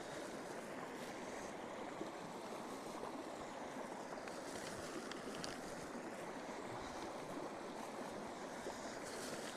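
Campfire burning with a steady rushing sound and a few faint crackles.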